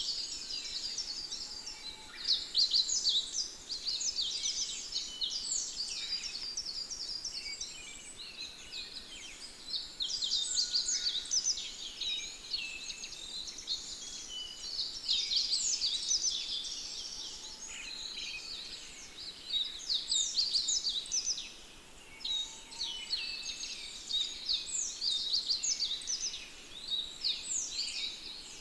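Many small birds chirping busily: a dense, overlapping chatter of short, high, quick chirps that rises and falls, with a few brief lulls.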